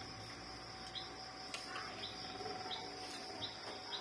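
Faint background insect drone, steady and high-pitched, with a short high chirp repeating about once a second and a faint click partway through.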